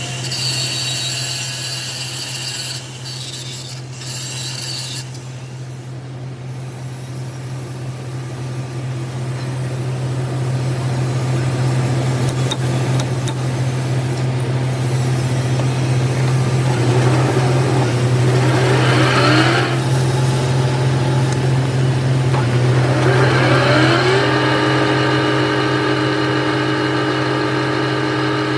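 Workshop machine motor running with a steady hum. A whine rises in pitch twice, about two-thirds of the way in and again near the end, then holds steady as the machine comes up to speed.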